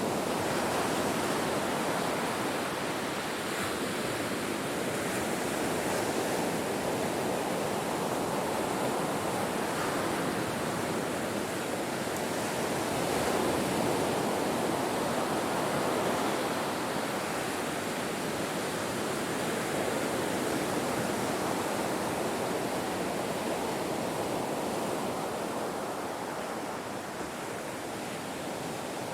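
Ocean surf on a shore: a continuous rush of waves breaking and washing in, swelling slightly louder around the middle and easing off near the end.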